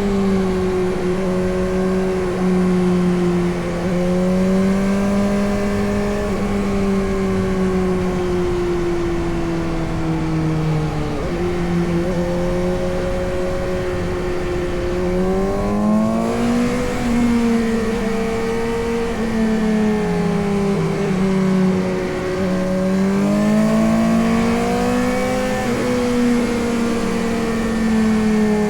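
Suzuki GSX-S750's inline four-cylinder engine running while the motorcycle is ridden. Its pitch wanders, drops suddenly about eleven seconds in, then climbs again at about sixteen and twenty-four seconds.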